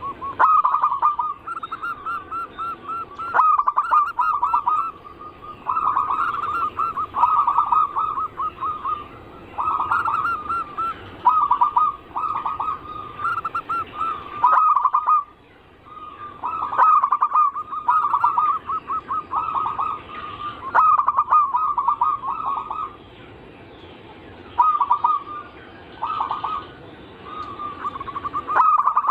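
Zebra dove (perkutut) cooing: bout after bout of rolling, trilled coos with short pauses between them. It is the perkutut song (anggungan) used as a lure call, and it breaks off abruptly a few times.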